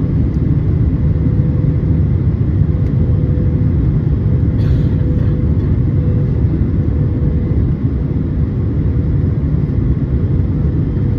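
Steady low rumble inside an airliner cabin on approach to landing: jet engine and airflow noise, with a steady hum on one pitch.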